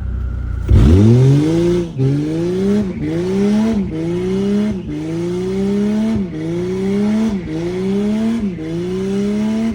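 Mercedes-Benz car engine revving hard. It starts suddenly with a sweep up in pitch, then runs in a repeating cycle, each time climbing in pitch for about a second and dropping sharply, about eight times.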